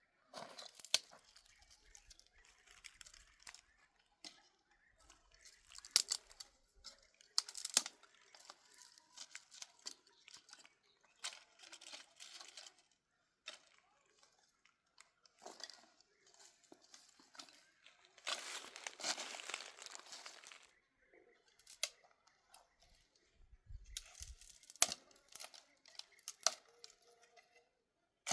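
Irregular crinkling, crunching and tearing handling noises with sharp clicks, and one longer rustle of about two seconds about two-thirds of the way through.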